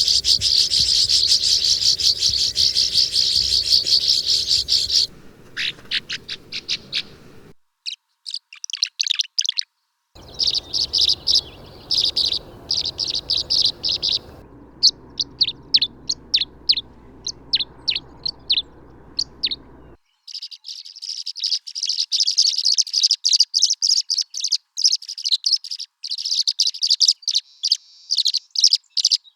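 Swallows twittering and chirping, from several recordings played one after another. A dense run of high twittering gives way after about five seconds to strings of short separate chirps, with abrupt breaks between recordings, then steady twittering again from about two-thirds of the way through.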